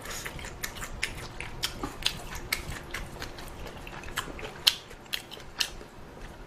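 A person eating, chewing a mouthful of ramen and its toppings, with irregular wet mouth clicks and one louder click about four and a half seconds in.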